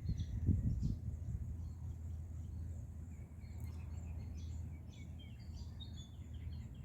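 Birds chirping with many short, high calls, busiest in the second half, over a steady low rumble, with a few dull thumps about half a second to a second in.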